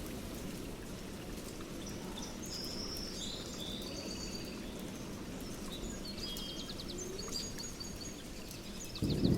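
Steady rain with birds chirping and trilling over it, and a roll of thunder starting near the end.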